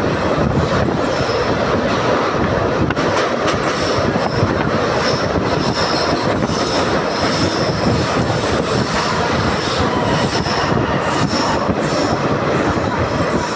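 Passenger train heard from inside a coach while climbing a steep ghat gradient: steady wheel and rail running noise with occasional rail-joint clicks. A faint high-pitched wheel squeal comes and goes through it.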